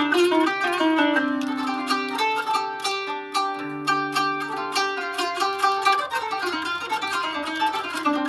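Kanun, the Turkish plucked zither, playing a solo taksim in makam Uşşak: quick runs of plucked notes with lower notes held ringing beneath them.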